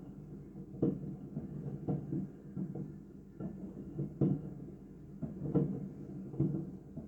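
Fireworks shells bursting, heard as a series of dull, muffled booms coming irregularly about once a second.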